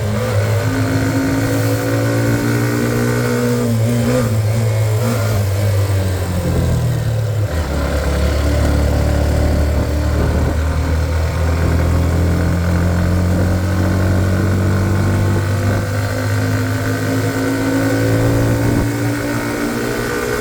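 Hero Xtreme 125R's single-cylinder engine running under load on a hill climb. Its note falls sharply about seven seconds in, then holds lower and rises slowly again toward the end.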